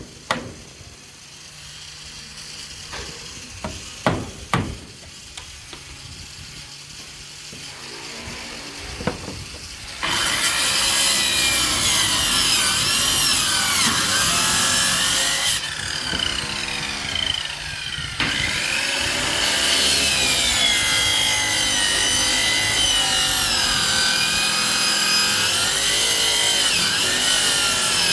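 A few scattered knocks, then about ten seconds in an electric power saw starts cutting. It runs on loudly, its pitch wavering up and down as the load changes, with a brief easing off partway through.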